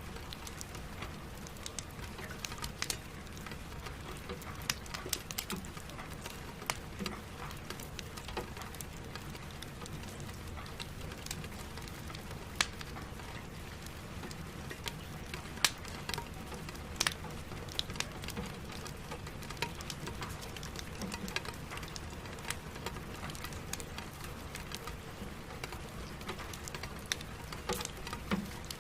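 Steady rain on a window mixed with a crackling wood fire: a continuous even hiss and rumble, broken by sharp pops and snaps at irregular intervals, a few of them loud.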